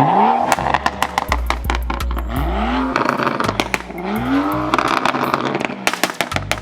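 Car engine revved hard three times, each rev climbing in pitch, with the exhaust popping and crackling rapidly throughout.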